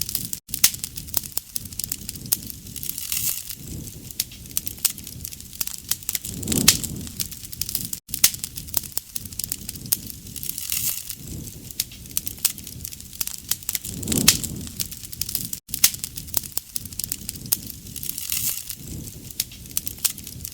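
Wood campfire crackling, with many small snaps and pops and a low rushing swell of the flames every three to four seconds. The sound cuts out for an instant three times, about every seven and a half seconds.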